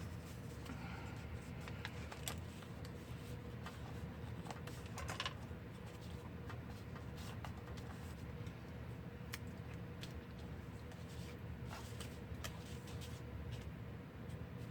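Paper and craft pieces being handled: scattered light clicks and soft rustles over a steady low hum.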